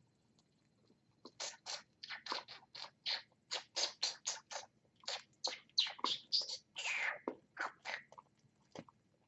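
Pet bird pecking and scraping at its food: a quick, irregular run of short scratchy clicks, about three a second, starting about a second in and stopping near the end.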